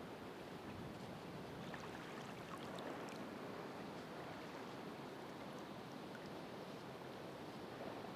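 Ocean waves washing on the shore in a steady, continuous wash, with a few faint scattered ticks.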